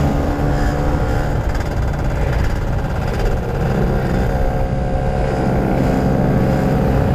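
Two-stroke motorcycle engine running at fairly steady revs while riding, the pitch holding nearly level throughout.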